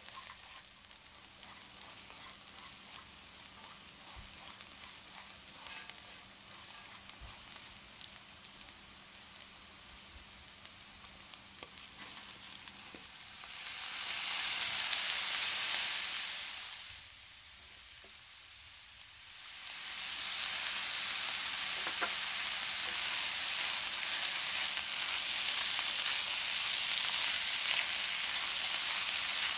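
Chopped onion and whole spices sizzling in oil in a stainless steel wok, stirred with a silicone spatula, with occasional small clicks. About halfway, drained soaked basmati rice is tipped in and the sizzle jumps to a loud hiss, drops away for a few seconds, then stays loud while the rice is stirred through the oil.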